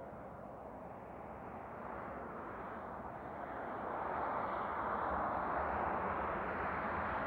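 Jet airliner passing close, its engine noise a steady rush that grows louder, levelling off about four seconds in.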